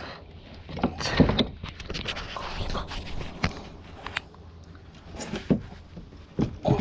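Irregular knocks, clicks and scrapes aboard a kayak, over a low steady rumble.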